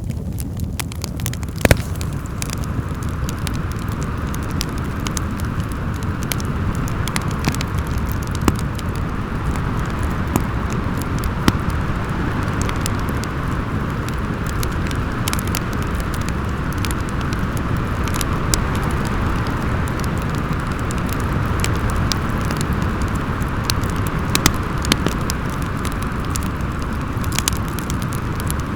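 Wind howling steadily over a low rumble, with a wood fire crackling throughout in frequent sharp pops, a few of them louder.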